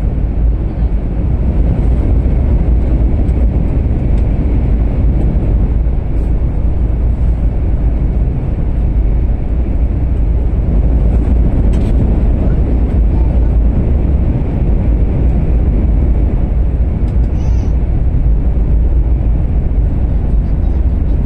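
Steady low rumble of a Shinkansen train running, as heard inside the passenger cabin, with no clear change in level.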